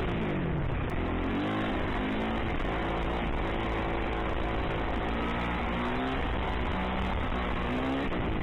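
Dirt bike engine revving up and down while riding: its pitch drops through the first second, climbs again about a second in, and rises once more near the end, under a constant rushing noise.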